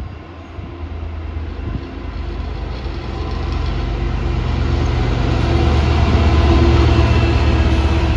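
A train approaching along the line. Its running noise grows steadily louder to a peak near the end, with a low steady hum underneath.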